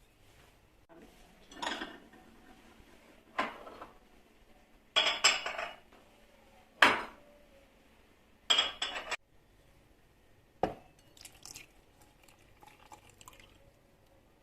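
Kitchen clatter: dishes, glasses and cutlery being handled, about six short clinks and knocks a second or two apart.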